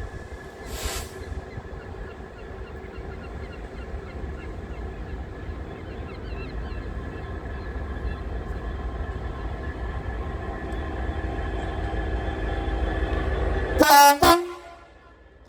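Train rumbling closer, growing steadily louder, with a short hiss about a second in. Near the end the train sounds its horn in one short, loud blast, after which the sound drops away sharply.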